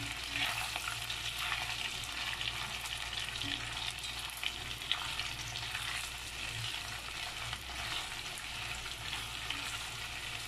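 Chicken wings and onion sizzling in hot oil in an enamelled cast-iron pot while being stirred with wooden chopsticks, with occasional light clicks of the chopsticks against the pot.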